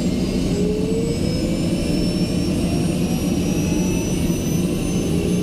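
Helicopter turbine engine running loud, cutting in abruptly, its whine rising slowly in pitch over a heavy rumble.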